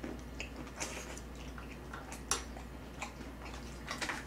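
Scattered small clicks and smacks of a mouthful of food being chewed, with light taps of metal tongs against the pan and bowl.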